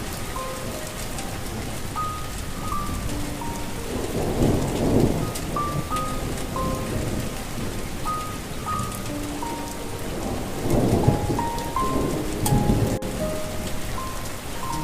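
Steady rain with thunder rumbling twice, about four seconds in and again from about ten to twelve seconds in, under a soft, slow melody of single held notes.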